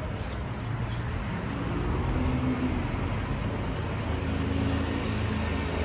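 Street traffic: a motor vehicle's engine rumbling low and steady, growing a little louder after about a second.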